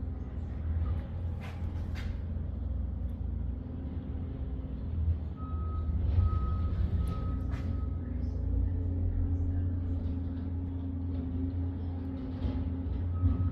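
1970 Ford Torino Cobra's 429 Super Cobra Jet V8 running with a steady low rumble. A thin high tone comes and goes partway through and again near the end.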